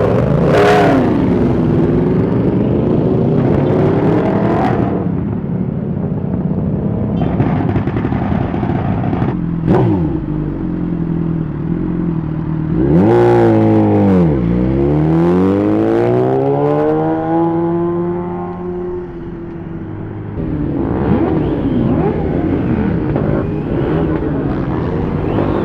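Superbike engines revving and accelerating, the engine note dropping and climbing several times, with a long rising climb about halfway through. A few sharp cracks cut through the engine sound.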